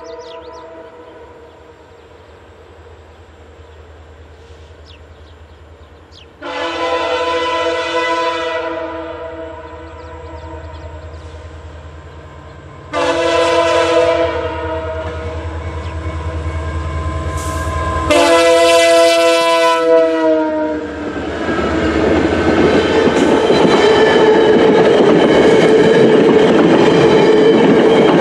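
VIA Rail F40PH-2D diesel locomotive approaching and sounding its multi-note horn in long blasts over the low drone of its engine. The horn's pitch drops slightly as the locomotive passes. Then the steady rumble and clatter of the passenger cars rolling by.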